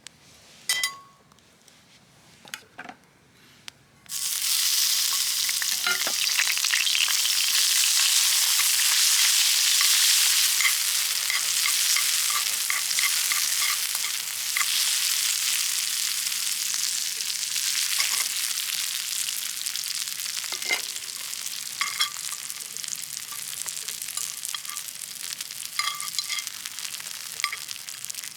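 A few light knocks, then food goes into a hot pan about four seconds in and starts sizzling loudly, with small pops and crackles running through the sizzle as it fries.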